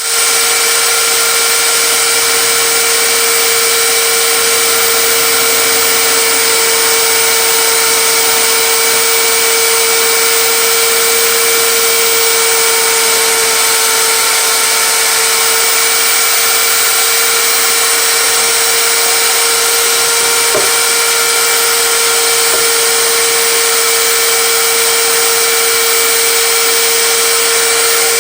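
Electric power tool motor running steadily at full speed, a constant high whine that holds one pitch throughout.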